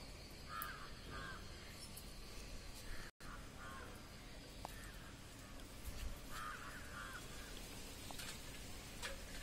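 Faint bird calls, short caw-like calls mostly in pairs, repeated several times, over a steady low background hum.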